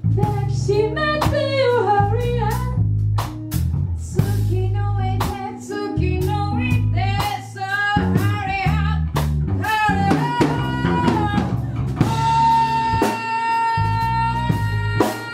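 A band playing music: drum kit, bass and guitar under a lead melody that bends up and down, then holds one long note for the last few seconds.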